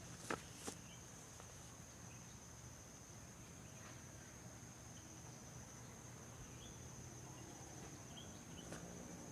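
An insect's steady, high-pitched trill, held unbroken and faint. A few soft clicks come near the start and again near the end.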